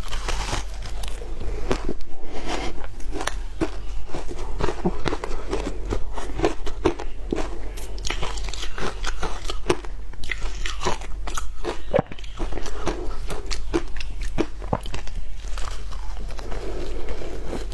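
A person biting and chewing shaved ice: a continuous run of sharp, irregular crunches.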